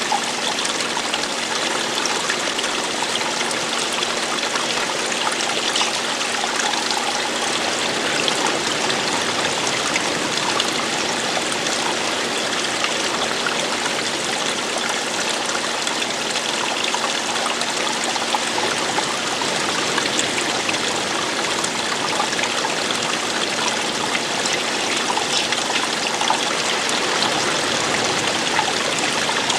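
Steady running water: a small stream or cascade flowing and splashing in a continuous, even rush with fine trickling detail.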